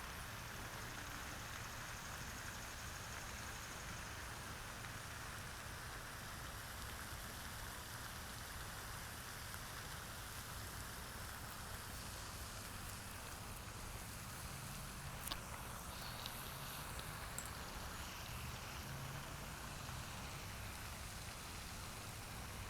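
Steady, even hiss of outdoor background noise, with one sharp click about fifteen seconds in.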